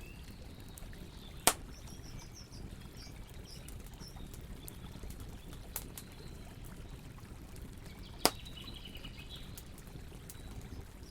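Campfire crackling, with small ticks throughout and two loud pops, one about a second and a half in and one about eight seconds in, over a low steady noise. Birds chirp faintly twice in the background.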